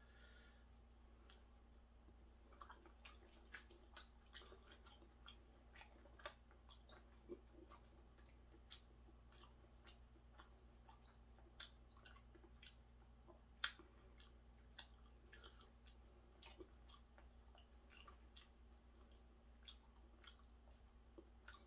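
Faint close-up chewing: soft wet mouth clicks and smacks at irregular intervals over a low steady hum.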